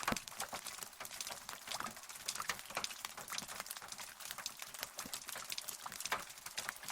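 Rain falling, a dense patter of individual drops striking close by, some much louder than the rest, over a steady hiss.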